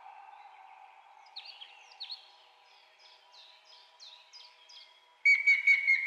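Wild birds calling over a fading steady tone. A run of short, high, downslurred whistled notes comes at about three a second, then near the end a sudden loud, rapid chattering call.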